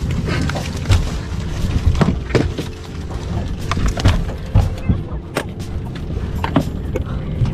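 Loud, dense rumbling noise broken by many sharp cracks and thuds, over background music.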